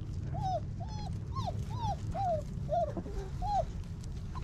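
38-day-old basset hound puppy whining, a run of short whimpers that each rise and fall in pitch, about two a second, over a steady low rumble.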